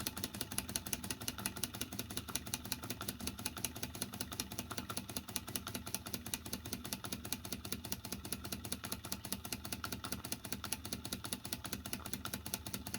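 Old Bing live steam toy traction engine running under steam, its small engine making a fast, even ticking that holds steady throughout.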